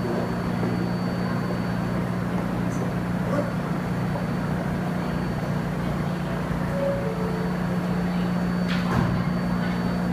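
R160A subway train standing at the station platform, giving off a steady low hum, with a brief click about nine seconds in.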